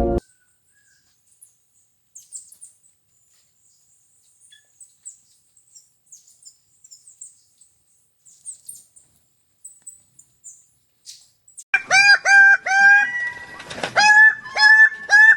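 Faint, scattered high chirps from a bird for most of the stretch. Near the end comes a loud run of short repeated calls, about three a second, each dropping in pitch at its end.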